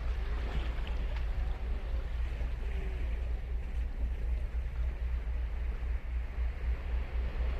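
Ocean surf washing steadily on a sandy beach, with a strong low rumble underneath.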